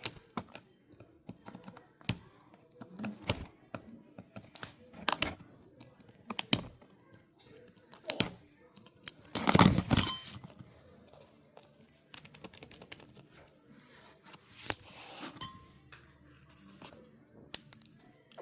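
Irregular small clicks, taps and light knocks of hand tools and phone parts being handled at a work surface, with a louder, longer scraping rustle about ten seconds in.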